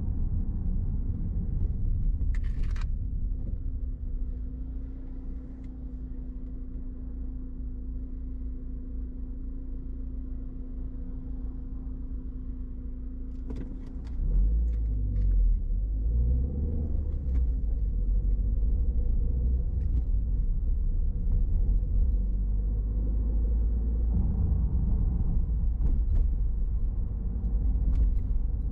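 Car driving, a steady low rumble of engine and road noise. It drops quieter with a steady hum for about ten seconds, then rises louder about halfway through as the car speeds up again.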